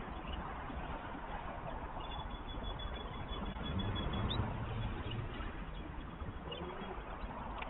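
Outdoor background from a nest-cam microphone: a steady low rumble that swells briefly about halfway through, with a thin high whistle held for a second or two and a few faint high chirps.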